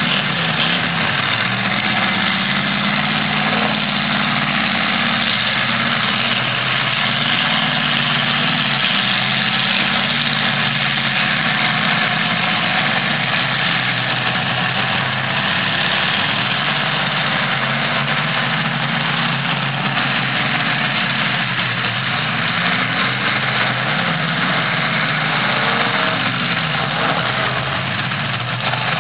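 Demolition derby cars' engines running, their pitch rising and falling as they rev, over a dense, steady noise.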